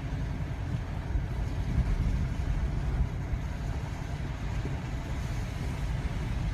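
Steady, uneven low rumble of a car driving slowly through snow, with strong wind buffeting it.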